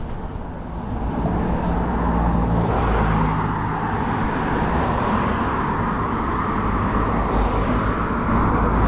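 Road traffic running past at close range: a steady rush of tyres and engines that swells about a second in.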